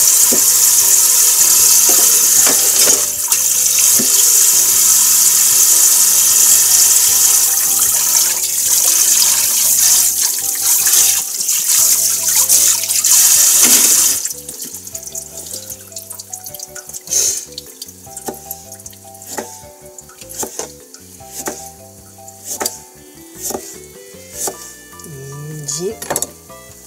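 Kitchen tap running hard into a stainless sink, shut off suddenly about halfway. Then a kitchen knife slicing a carrot into rounds on a plastic cutting board, a sharp knock about once a second, over background music.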